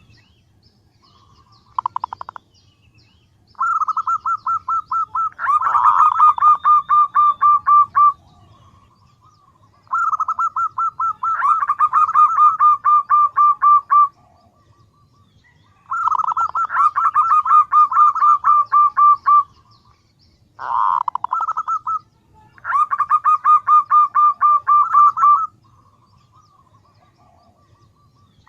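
Female zebra dove (perkutut) calling: trains of rapid, evenly pulsed cooing notes, each lasting a few seconds and repeated several times. This is the female's call to males, used as a lure call. Fainter high chirps sound over the louder bouts.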